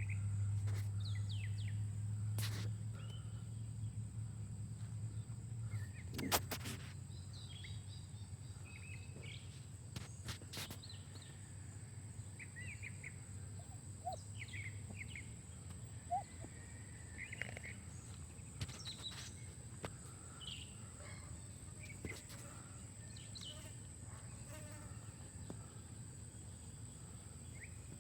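Outdoor ambience: scattered short bird chirps over a steady low hum, which is louder for the first several seconds, with a few sharp clicks.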